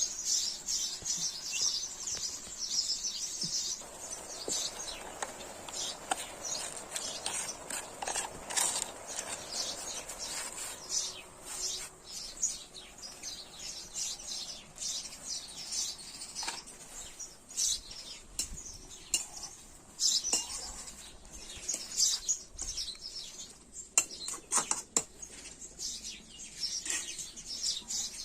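Metal utensils clinking and scraping against cooking pots and dishes in a run of short, irregular clicks, with birds chirping in the background.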